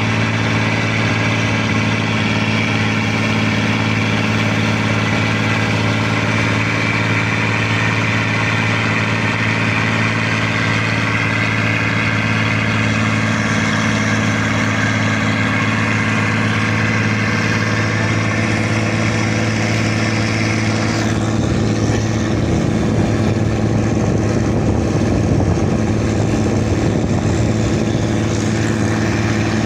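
Fishing boat's diesel engine running steadily at constant speed, a loud even hum. About twenty seconds in, the higher part of its sound drops away while the low hum carries on.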